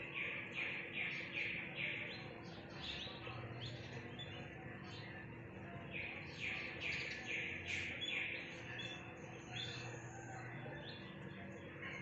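Small bird chirping in two quick runs of about six notes each, one at the start and another about six seconds in, with scattered fainter chirps between and a faint steady hum underneath.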